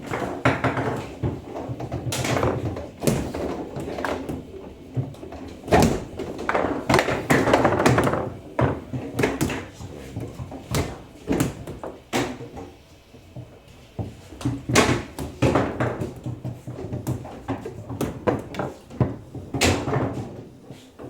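Foosball table in play: sharp knocks at irregular intervals as the ball is struck by the plastic figures and hits the table, with rattling in between.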